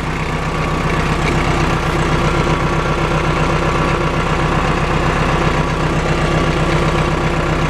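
Case 570 MXT tractor's 3.9-litre Cummins four-cylinder diesel running steadily at idle, warming up. It gets a little louder over the first second or two, then holds even.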